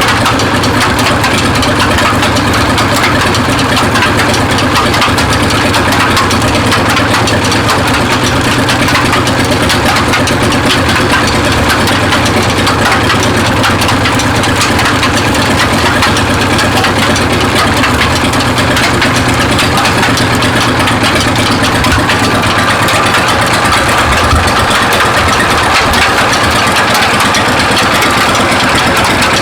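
An engine running steadily at a constant speed, with a thin steady whine added near the end.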